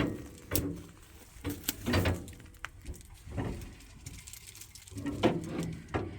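Scattered, irregular knocks, clicks and rattles from hands and tools working at a jammed soybean combine.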